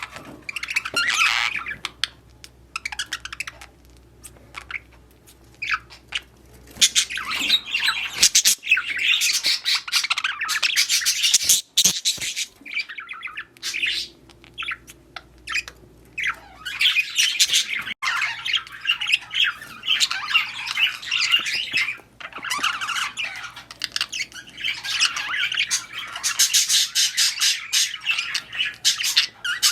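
Budgerigars chattering and squawking in quick, broken bursts, sparse at first and near-continuous from about seven seconds in, over a faint steady low hum.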